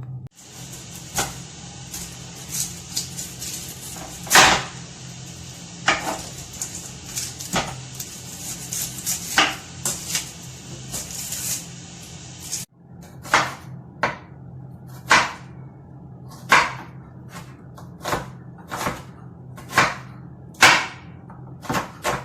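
Ginger, garlic, mint, coriander and green chilies being pounded into a paste, most likely with a pestle and mortar: sharp, irregular knocks about once a second over a steady low hum.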